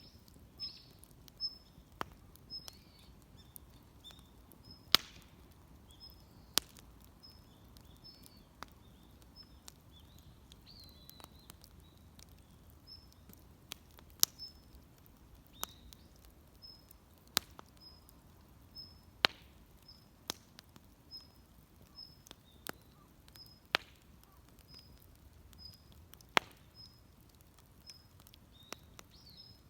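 Wood fire crackling, with sharp irregular pops and snaps. A bird repeats a short high chirp over and over in the background.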